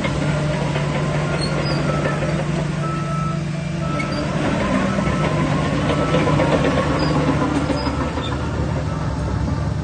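Shantui DH17 bulldozer's diesel engine running steadily, with a low drone and brief high metallic squeaks scattered through.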